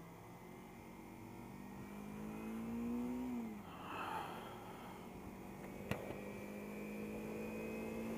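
Kawasaki Ninja 300 sport-bike engine under way: its pitch climbs steadily for about three seconds as the bike accelerates, then drops off, and it holds a steady pitch for the rest of the time. A brief rush of noise comes about four seconds in, and a single sharp click just before six seconds.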